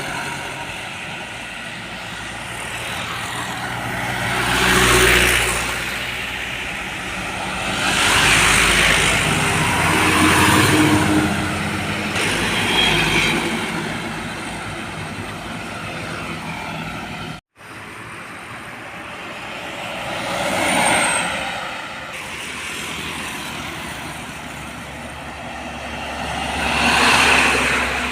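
Road traffic: trucks and cars passing one after another, each swelling up and fading away, about six pass-bys over a steady engine hum. The sound drops out abruptly for an instant a little past halfway.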